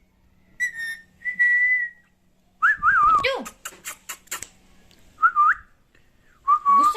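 Pet parrot whistling in short clear notes, some held steady and some wavering and gliding, with a rapid series of sharp clicks in the middle and a quick rising whistle later on.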